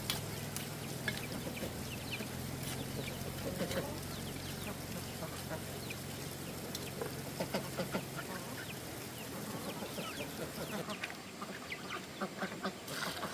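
Chickens clucking, with short scattered calls, over a low steady hum that fades out about eight seconds in.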